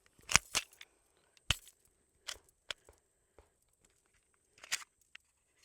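Sharp metallic clicks and snaps from handling a Smith & Wesson .22 Magnum pistol while loading cartridges into its magazine. There are about seven clicks at uneven intervals, the loudest two close together near the start.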